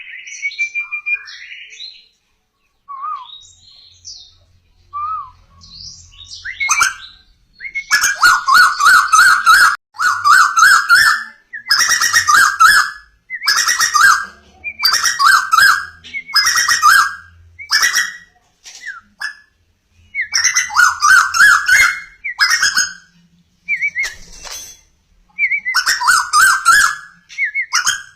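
A bird known locally as 'burung tuwu' singing close by. Soft scattered calls for the first several seconds, then loud phrases about a second long, repeated every one to two seconds with brief pauses.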